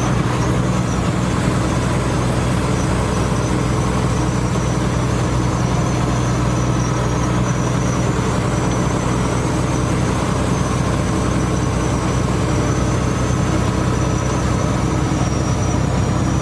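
Steady rain falling, over a steady low hum that does not change.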